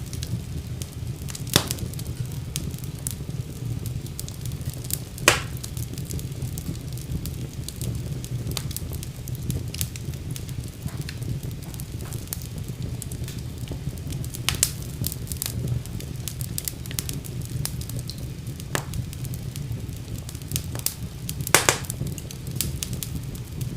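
Wood fire burning in a fireplace: a steady low rumble of flames under constant small crackles, with a few louder pops scattered through.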